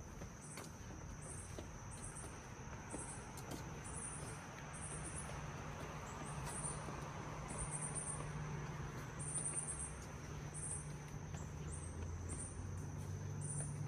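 Insects calling outdoors: a high-pitched pulsing chirp about twice a second over a steady high whine. A low hum comes in about five seconds in.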